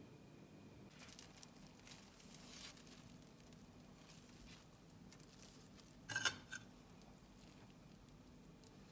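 Quiet room with faint rustling and handling noises, then a sharp clink about six seconds in, followed by a smaller one, like a dish or glass being set down.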